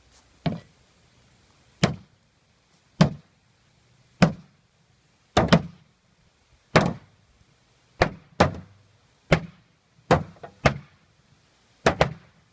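A maul repeatedly striking a junk refrigerator's metal body: about a dozen hard blows, roughly one a second, some coming in quick pairs, each with a short metallic ring.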